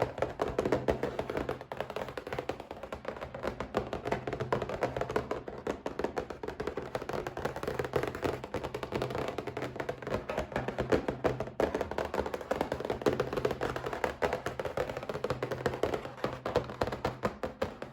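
Fingers tapping on a box in ASMR style: rapid, continuous taps with no pause.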